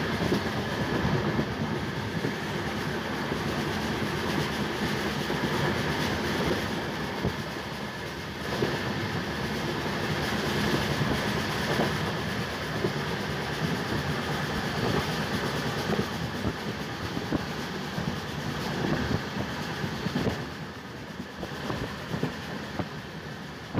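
Sleeper coach of an express passenger train running at full speed, heard at the open coach door: a steady rush of wheels on rail with a running irregular clatter of clicks over the track, easing slightly near the end.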